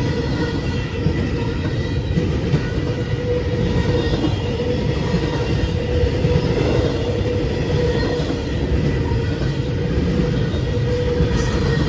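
A freight train rolling past at close range: a steady, loud rumble of wheels on the rails.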